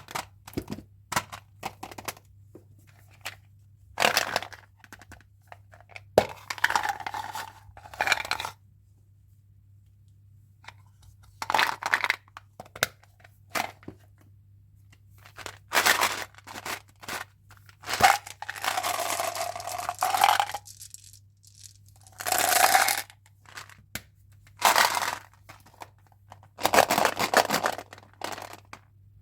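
A chewing gum pack being unboxed by hand: its wrapper and packaging are torn open, crinkled and rustled in short bursts, between sharp clicks and taps as the pieces are handled.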